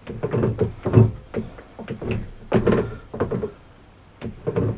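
Repeated short knocking, scraping strokes from broaching a keyway on a lathe, as the cutting tool is driven in and out of the bore by hand, about one to two strokes a second at an uneven pace.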